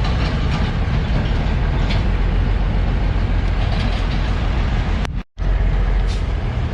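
Steady, loud rumble of a vehicle running, with the sound cutting out briefly about five seconds in.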